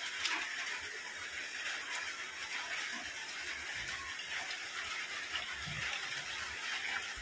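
Steady hiss of rain falling outside, with a few faint soft knocks.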